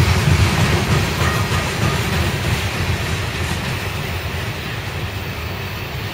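CSX coal train rolling along the rails, a steady rumble of wheels and cars that slowly fades.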